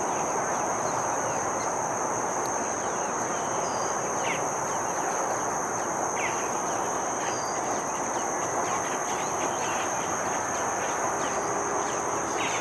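A steady high-pitched insect drone over a constant rushing hiss, with a few brief falling bird calls about four seconds in, about six seconds in and near the end.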